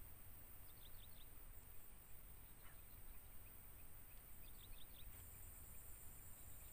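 Near silence: faint outdoor ambience with two brief clusters of high bird chirps, about a second in and again near five seconds.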